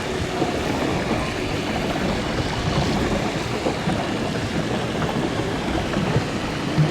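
Steady churning and splashing of water as a pedal boat is pedalled across a pond, with a brief thump at the very end.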